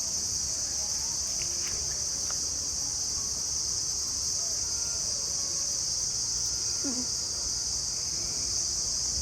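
A steady, high-pitched chorus of insects droning without a break, with a few faint short calls underneath.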